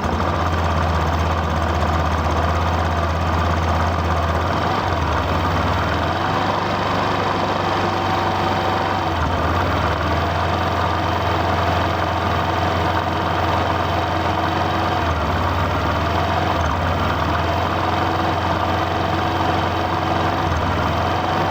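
A heavy vehicle engine idling steadily, cutting in suddenly at the start and holding an even, constant low drone.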